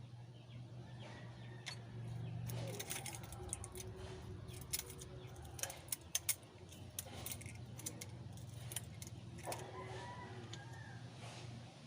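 Metal hand tools and engine parts clinking in a scattered run of sharp clicks over a steady low hum, as work goes on at the top of a 4BA1 diesel engine.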